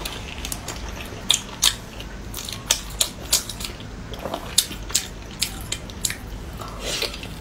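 A person chewing and biting food close to the microphone: irregular short clicks and smacks of the mouth, a few each second.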